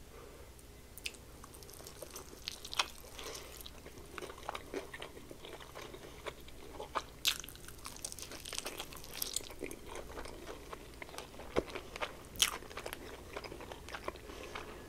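Close-miked biting and chewing of a fried breaded chicken wing: scattered crisp crunches and crackles of the coating, with quieter chewing between them.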